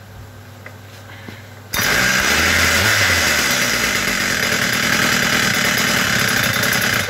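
Husqvarna K970 concrete chain cutter's 94 cc two-stroke engine starting warm without choke: it catches suddenly about two seconds in and runs loud and steady, dropping in level just before the end.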